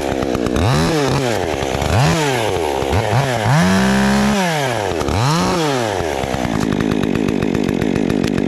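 Two-stroke chainsaw revved in short bursts, each rising and falling back about once a second, held at full speed for about a second near the middle, then dropping to a steady idle for the last couple of seconds.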